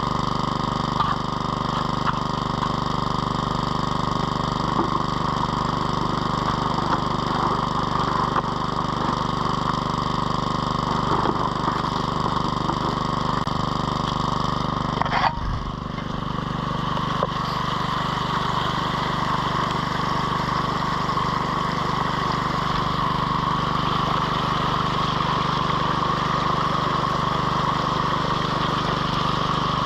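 Small petrol engine driving the water pump of a high banker, running steadily at a constant speed, with a brief knock about halfway through.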